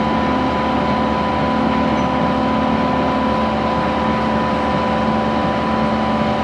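Excavator engine running steadily while it pulls a water-line plow, a constant hum with a steady whine on top.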